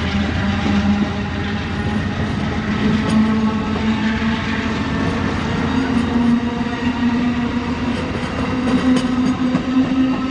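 Amtrak Crescent passenger train running through the station: a steady diesel drone that rises slowly in pitch, over rolling rumble and a few wheel clicks.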